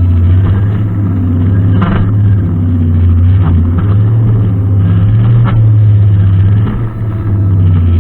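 Brushcutter engine running steadily under a low, even hum, with a few short sharp ticks and a brief dip in level near the end.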